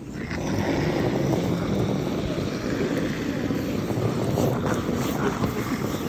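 Curling stone sliding over the pebbled ice, heard from on the stone, with a curling broom scrubbing the ice ahead of it. The steady noise comes up about a third of a second in and holds.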